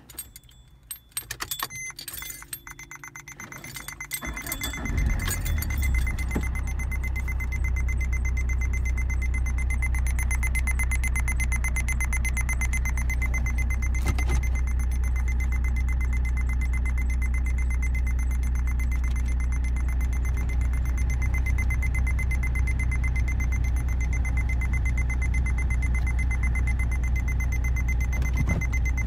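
Keys jangle and the ignition is turned, and about five seconds in the Vauxhall Astra H's engine starts and settles into a steady idle. An aftermarket parking sensor buzzer sounds a steady high tone, the warning of an obstacle close behind the car.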